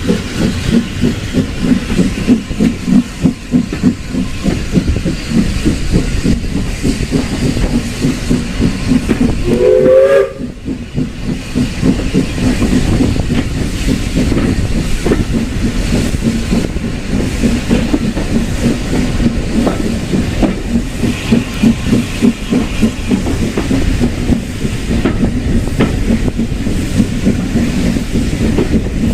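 A steam-hauled heritage train running, heard from inside a passenger compartment: a steady rumble with a rhythmic clatter of the carriage on the rails. About ten seconds in there is a short rising pitched tone, and then the level dips for a moment.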